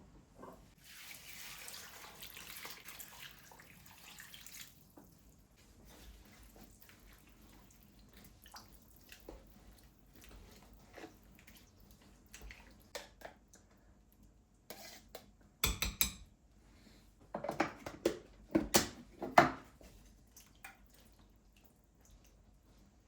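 Kitchen handling sounds: a short stretch of water running from a tap about a second in, then scattered small clicks and, past the middle, a few louder clinks and knocks of dishes and utensils.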